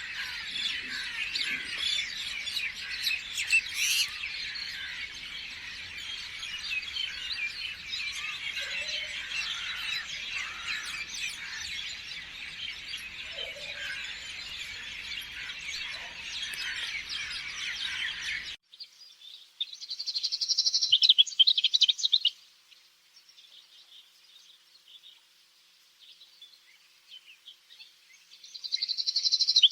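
Many birds chirping and singing at once in a dense chorus that cuts off abruptly about two-thirds of the way through. After that, a bird gives two short, high trilling bursts several seconds apart, with near quiet between them.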